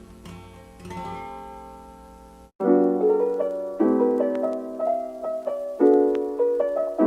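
Background music: an acoustic guitar passage fades, cuts off briefly about two and a half seconds in, and a gentle piano tune starts with single notes.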